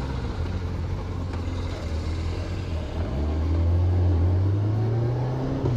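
Motorcycle engine idling steadily, then rising in pitch after a brief dip about three seconds in as the bike pulls away.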